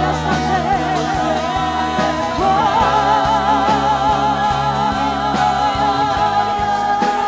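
Slow congregational worship music: a band with a steady beat under a sung melody with long held, wavering notes.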